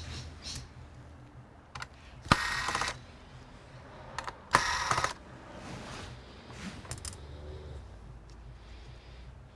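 Disassembly noises from an all-in-one computer's casing and parts: scattered small plastic clicks, and twice a short, loud scraping rasp, each starting with a sharp click, about two seconds apart.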